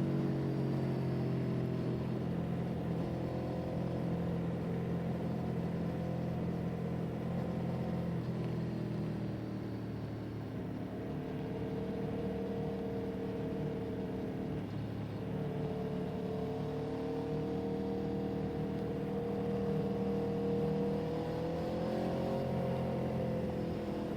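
Vehicle engine running while under way. Its pitch drops over the first second and then rises and falls gently as the speed changes.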